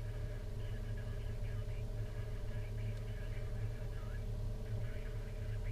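Vehicle engine running steadily with a low hum, and faint, muffled voices talking over it.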